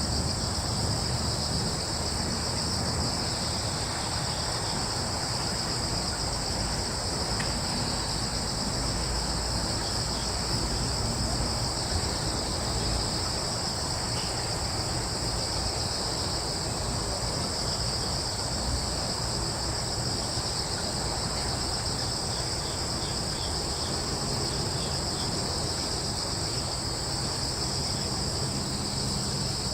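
Crickets trilling without a break, a steady high chorus in two overlapping pitches, over a soft rushing noise of breeze.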